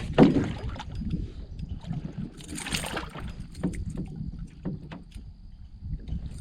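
Handling sounds in an aluminium-free fishing canoe while a hooked bass is played: scattered knocks and bumps against the hull, a loud knock at the start, and a short rush of hissy noise about two and a half seconds in.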